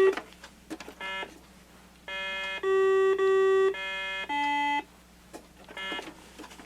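Repaired Milton Bradley Simon electronic memory game playing a sequence of its electronic button tones: a short beep, then a run of several beeps from about two to five seconds in, the longest in the middle and the last one lower in pitch, then one more short beep. The lights-and-tones game is working again.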